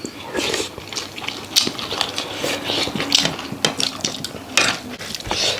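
Eating at a meal: irregular clinks and scrapes of cutlery against a plate as food is mixed and scooped.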